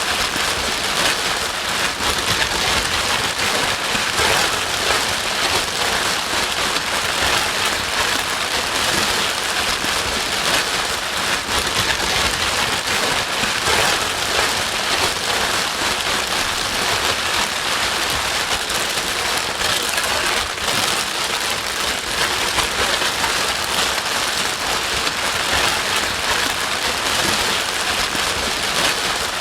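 Steady rain-like white noise: an even, unchanging hiss with a fine pattering texture, used as a sleep-aid noise track to soothe a crying baby.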